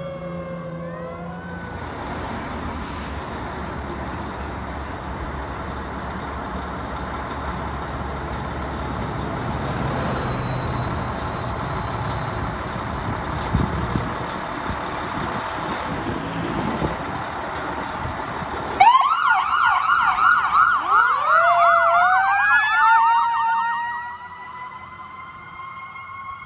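Emergency vehicle siren winding down at the start, then a long stretch of steady rumbling vehicle and road noise. About 19 seconds in, a loud electronic siren starts in a fast yelp, then switches to a slower rising wail that carries on more quietly near the end.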